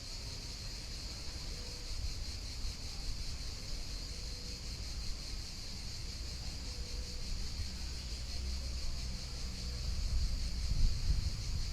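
Outdoor river ambience: a steady high hiss with a low wind rumble on the microphone that gusts louder near the end.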